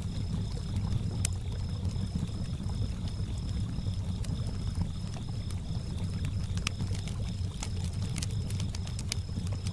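Campfire crackling with sharp scattered pops, coming more often in the second half, over the low steady lapping of lake water. Crickets chirp throughout in a high, evenly pulsing trill.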